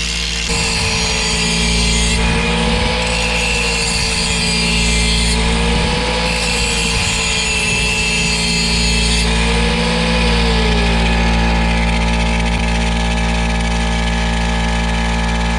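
A motor running steadily, with one tone in it rising and falling gently about four times.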